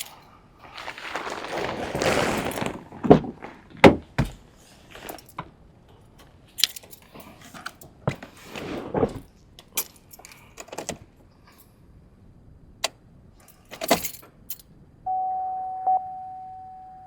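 Car keys jangling, a rustle and several sharp knocks and clicks as someone gets into the car. About two seconds before the end, a single steady electronic chime tone sounds and slowly fades, as the ignition of a 2015 Chevrolet Equinox is switched on.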